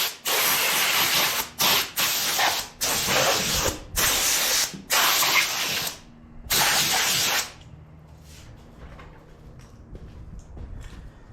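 Repeated short bursts of hissing pressurized spray, about eight of them, starting and stopping sharply, then falling away to quiet background for the last few seconds.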